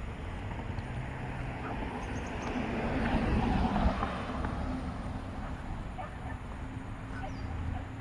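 A motor vehicle passing by, its noise swelling to a peak about three to four seconds in and then fading.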